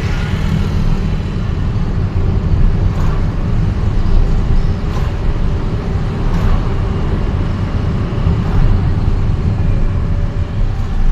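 Steady low rumble of a vehicle riding through city traffic, with road noise.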